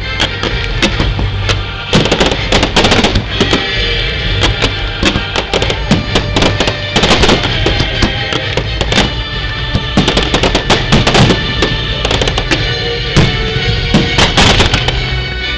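Fireworks going off in rapid succession, many sharp bangs and crackles, mixed with loud music playing throughout.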